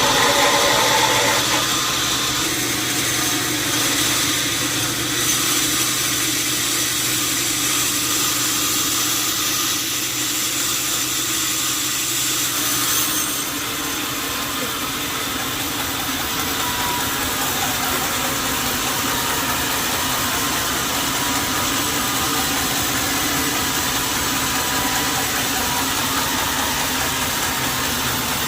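Sawmill machinery running steadily, a dense mechanical noise with a low hum that drops away about halfway through.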